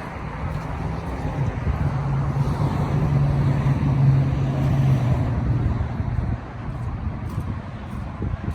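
A motor vehicle engine running close by with a steady low hum over road noise. It grows louder through the middle and drops away about six seconds in.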